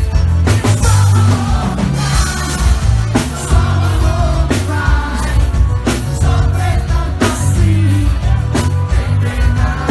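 Live forró band playing loudly, with a singing voice over a heavy bass line and a regular drum hit about every second and a half.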